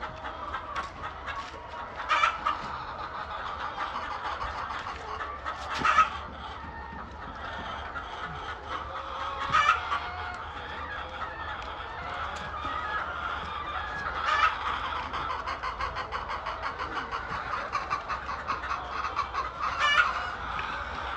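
A flock of chickens clucking continuously, with five short, louder calls standing out over the steady chatter.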